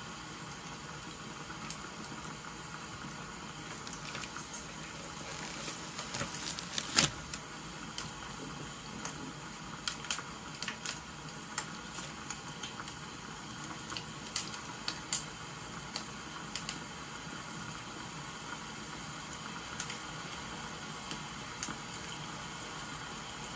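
Crackling wood fire over a steady rain hiss: scattered sharp pops and crackles, clustered and loudest about six to seven seconds in, then sparser.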